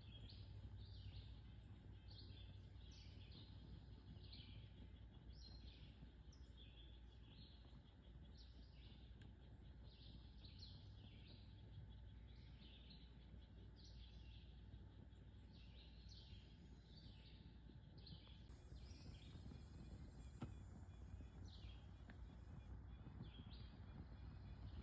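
Faint bird calls: short chirps repeated about once or twice a second, thinning out about three-quarters of the way through, over a low steady rumble of background noise.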